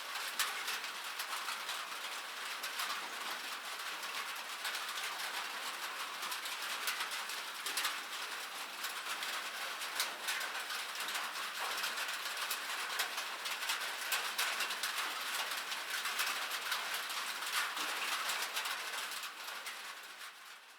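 Rain falling on metal: a steady, dense patter with many sharp individual drop strikes ringing on the metal. It fades out near the end.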